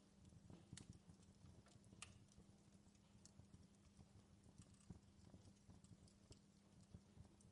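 Faint crackling of a wood fire in a fireplace: irregular small pops and snaps over a low steady rumble.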